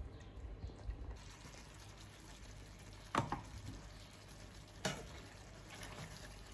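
Food frying in a pan on the stove: a steady sizzle that comes up about a second in, with a utensil clicking against the pan twice as it is stirred.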